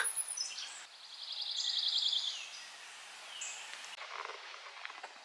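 Songbird singing outdoors: a fast, high trill lasting about a second and a half, with a few other short bird calls around it.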